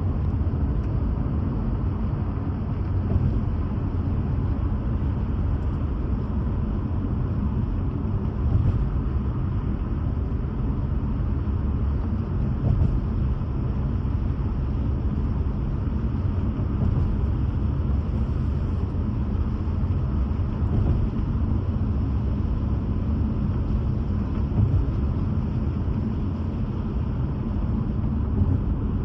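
Car driving at road speed: a steady low rumble of tyres, engine and wind, heard from inside the vehicle.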